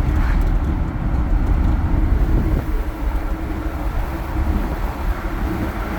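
A lifted Jeep driving on the road: a steady low rumble of engine and road noise, with wind buffeting the microphone.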